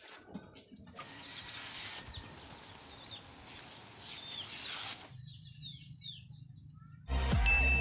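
Outdoor ambience with a background hiss and small birds chirping a few times. Loud music cuts in near the end.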